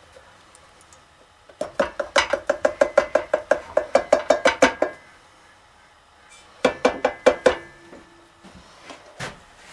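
Metal utensil knocking against cookware in quick ringing clinks, about five a second for roughly three seconds, then a shorter run of clinks about two-thirds through. This is the sound of thick mole paste being scooped and knocked off into the pot.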